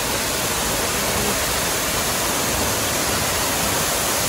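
Steady rush of water from a waterfall, a dense even noise that grows slowly louder.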